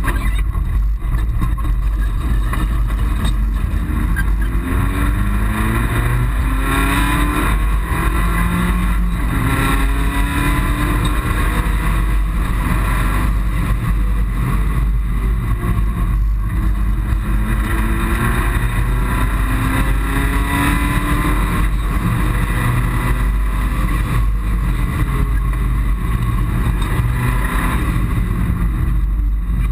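Mitsubishi Colt rally car's engine heard from inside the cabin, accelerating hard with its pitch rising again and again through the gears, over constant road and wind noise.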